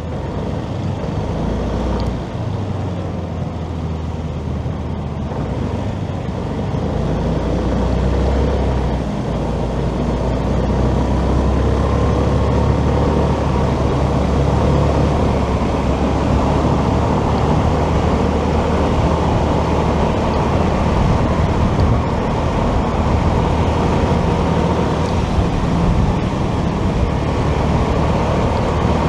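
Motorcycle running while riding in traffic, with steady road and wind noise; it grows louder over the first ten seconds or so as it picks up speed, then holds steady.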